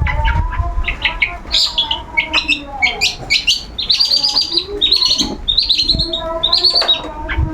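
Long-tailed shrike (cendet) singing in full voice: a fast, unbroken run of short, harsh chirps and trills, busiest in the second half.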